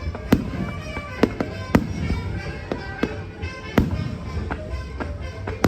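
Fireworks going off: a string of sharp bangs and cracks at irregular intervals, the loudest roughly a second apart, with smaller pops between them.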